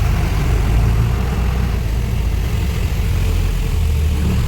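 Truck engine running steadily, a low-pitched drone with no sudden changes.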